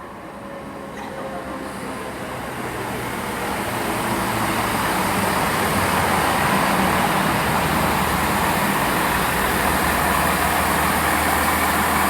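Diesel train approaching the station, its engine and running noise growing steadily louder over the first half and then holding steady.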